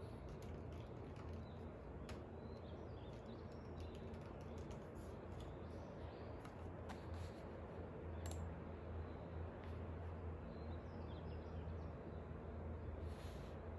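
Scattered light clicks and taps from desk work, typing-like, over a steady low background noise. Faint bird chirps come through now and then.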